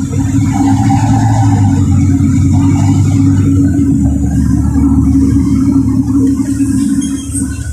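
LiAZ 4292 city bus running under way: a steady, loud low engine drone with a strong hum, easing off slightly near the end.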